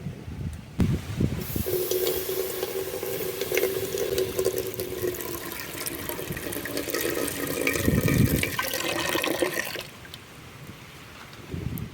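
Water pouring steadily for about eight seconds, then stopping.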